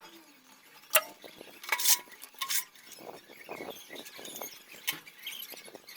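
Handling noises: two sharp clacks, about a second in and near the end, with short scrapes and rattles of objects being moved in between.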